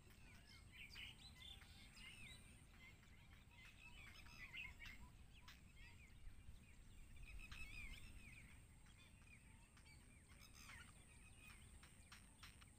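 Faint, high-pitched chirping of birds: many short, quick chirps in scattered clusters, with a few sharp clicks and a low rumble beneath.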